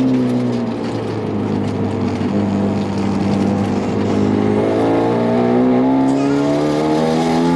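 Hyundai Genesis Coupe's turbocharged 2.0-litre four-cylinder race engine under hard track driving: the revs drop over the first couple of seconds, then climb again under acceleration from a little past halfway.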